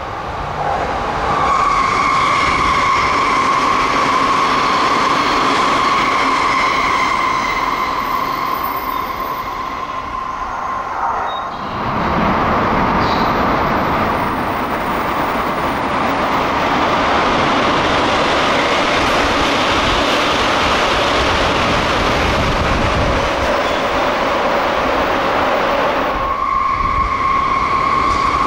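Tsukuba Express TX-2000 series electric trains passing through stations at speed without stopping. At first a train runs past with a steady high whine over the rail noise. About twelve seconds in it changes suddenly to a deeper, fuller rush of noise as a train races through an underground station, and the high whine returns near the end.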